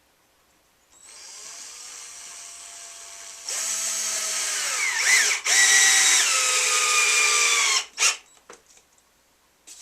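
Power drill driving deck screws into wood: the motor whines, gets louder a couple of seconds in and drops in pitch as the screw takes load, stops briefly, then runs again with its pitch sagging before it stops near the end, followed by a click or two.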